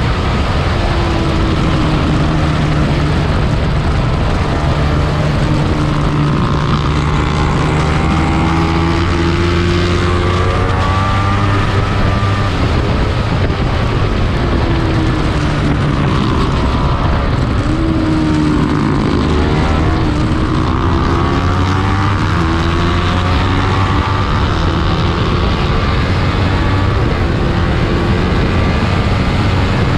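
Small-displacement race motorcycle engine running hard at high revs, its pitch repeatedly climbing and dropping through gear changes and slowing for corners, over a loud steady rush of noise.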